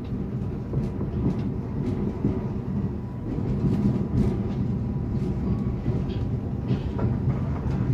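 Passenger train running on the rails: a steady low rumble with a few faint clicks.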